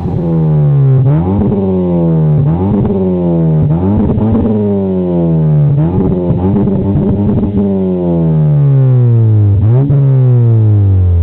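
Mazda 6 engine revved repeatedly through its exhaust: a run of throttle blips, each rising quickly and dropping back slowly, then one longer fall and a last short blip near the end.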